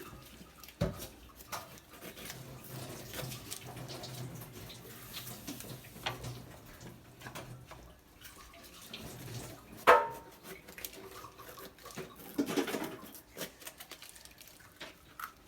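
Kitchen prep sounds: scattered knocks and clatter of utensils on a work surface, with one sharp knock about ten seconds in and a short run of clatter a couple of seconds later.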